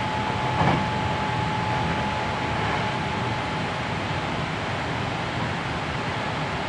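Hankyu 7300 series electric train running at speed, heard from inside the car: a steady rumble of wheels on rail with a thin steady tone over it, and one short knock about half a second in.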